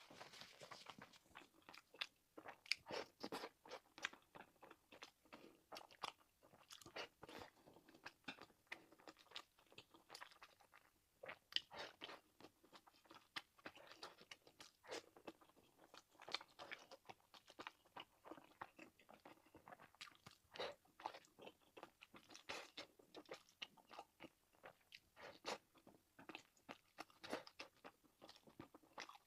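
A person chewing and biting mouthfuls of egg fried rice and air-fried Sichuan pork sausage close to the microphone. The sound is an irregular, continuous run of small clicks and crunches.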